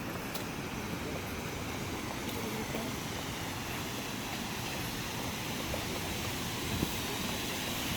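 Wind buffeting the microphone as a steady, rumbling outdoor roar.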